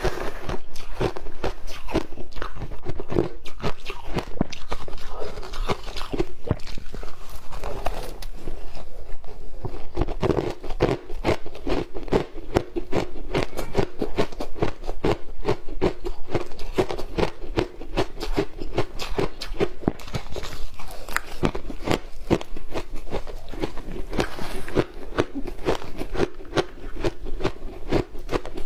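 A person biting and chewing ice coated in matcha green tea powder: a rapid, unbroken run of crisp crunches.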